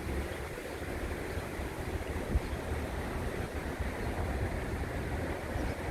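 Wind buffeting the microphone: an uneven low rumble of noise with no steady tone.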